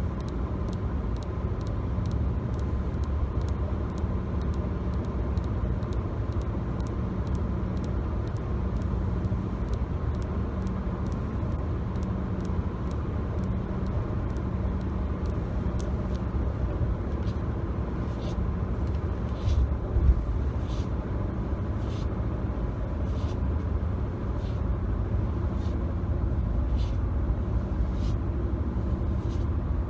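Fingertips or nails tapping on hard parts of a car's interior, a quick even run of light clicks that turns slower and uneven about halfway through. Under it runs the steady low road and engine rumble of the moving car heard from inside the cabin, with one louder bump about two-thirds of the way in.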